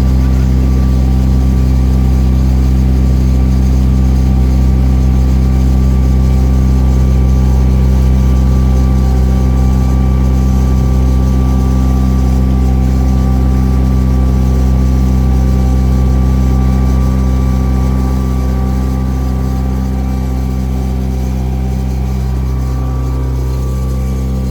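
Cruise boat's engine running with a steady low hum, easing off slightly about two-thirds of the way through.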